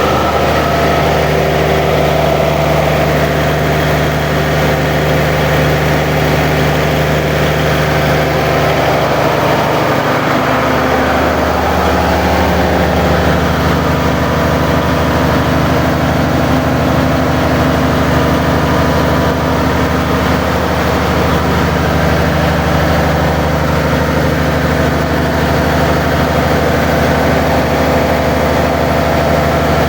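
Cummins NTA 855 turbocharged inline-six diesel engine running steadily at a constant speed, its note shifting slightly about eleven seconds in.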